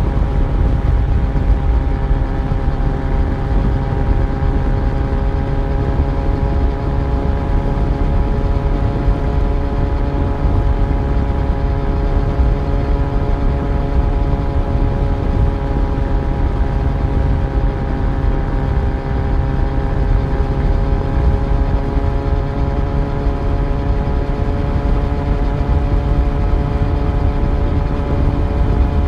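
Yamaha FZ1 inline-four motorcycle engine running at a steady cruise. The engine note eases slightly partway through and picks back up near the end, over a constant low rumble.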